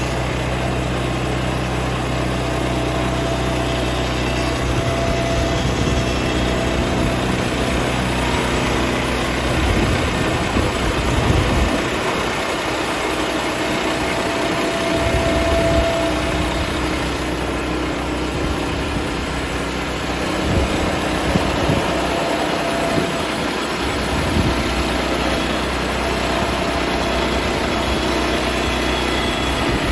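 Sawmill engine running steadily, its sound changing about ten seconds in to a rougher, heavier note with a few swells as the saw works through a white ash log.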